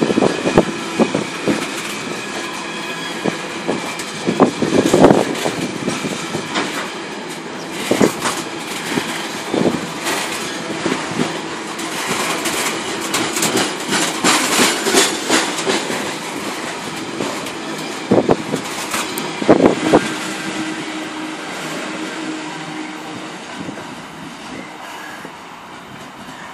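Freight train's open box wagons rolling past at speed: a steady rumble of wheels on rail with heavy clattering knocks as wheelsets cross the rail joints, a few seconds apart, and a faint ringing from the wheels. The sound fades over the last few seconds as the train draws away.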